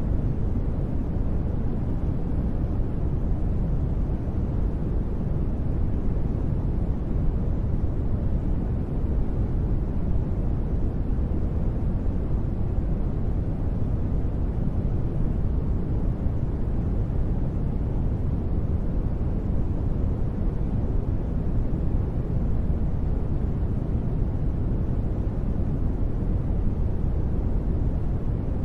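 Continuous sleep noise sold as white noise but weighted toward the bass: a steady, deep rushing sound that never changes.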